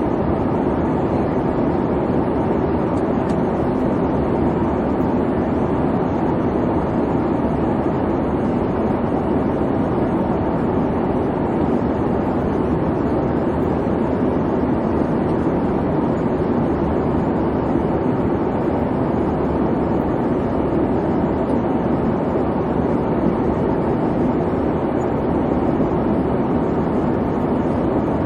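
Airplane cabin noise in flight: an even, low rushing hum of the engines and airflow, steady with no changes.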